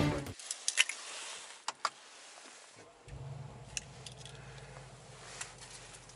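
Small clicks and a jingle from a car key fob being handled. About three seconds in, the Mercedes-AMG G63's 4.0-litre twin-turbo V8 starts and settles into a low, steady idle, heard from inside the cabin.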